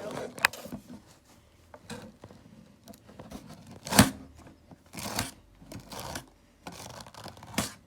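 A brush drawn through a toy horse's tail hair in several separate short swishing strokes, with a sharp click about four seconds in.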